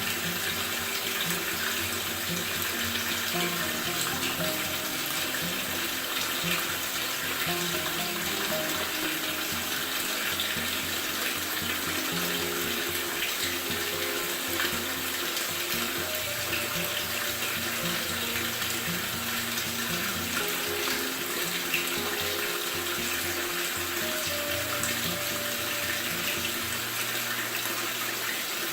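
Top-load washing machine filling, water rushing steadily into the tub, with background music of changing held notes.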